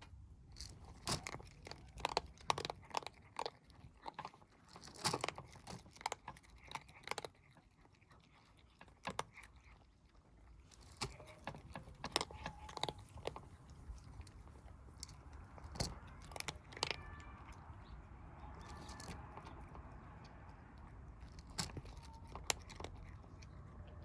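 Kittens chewing and crunching dry cat food, irregular crisp crunches, denser in the first half, over a low steady rumble.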